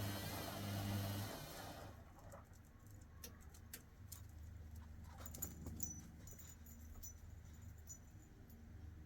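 Hoover WDYNS654D washing machine running a wash: the drum motor hums for about the first two seconds, then the sound drops away to faint clicks and a low hum as the drum slows and pauses before turning again.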